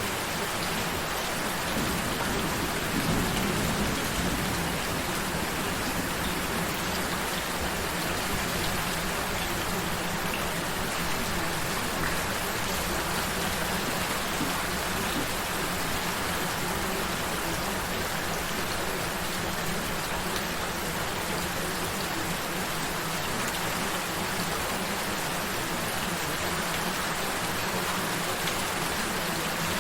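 Steady gentle rain falling on a surface, with a soft low swell about three seconds in.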